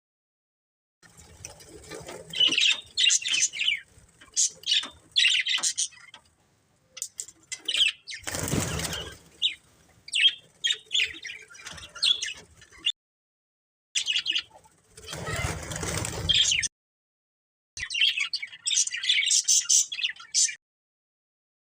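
Budgerigars chirping and chattering in quick high clusters, with two longer noisy bursts of fluttering wings about eight and fifteen seconds in. The sound cuts out to silence abruptly a few times.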